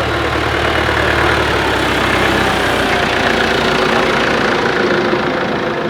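Tractor engine running steadily at low speed; its deepest note drops away about a second and a half in, leaving a steady mid-pitched engine hum.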